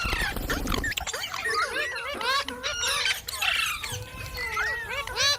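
Parrot squawking and chattering: a rapid, continuous run of short whistled calls that sweep up and down in pitch.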